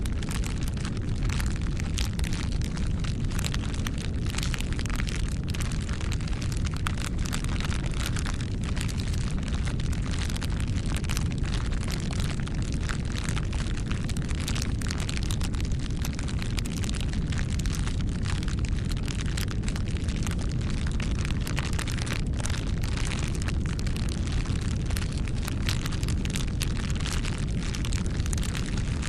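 Wood fire crackling: a constant stream of sharp pops and snaps over a steady low rumble of the flames.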